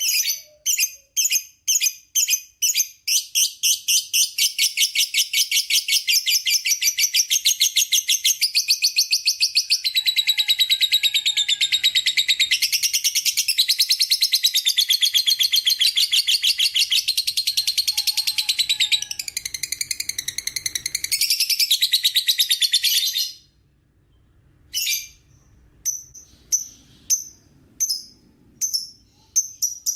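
Lovebird ngekek: sharp high chirps that speed up into one long, rapid, unbroken chattering trill of about twenty seconds, which stops suddenly, followed by a few separate short chirps near the end.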